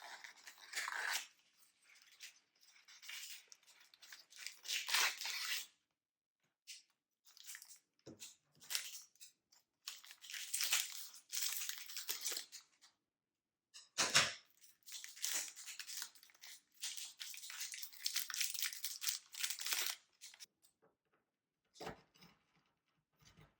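Snack packaging being handled and torn open: bursts of crinkling and tearing a few seconds long, with short pauses between them and a few sharp knocks.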